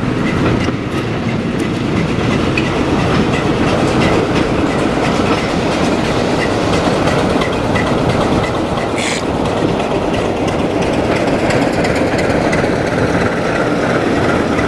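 Diesel-hauled train running along the track, with a steady rumble and the clickety-clack of wheels passing over rail joints.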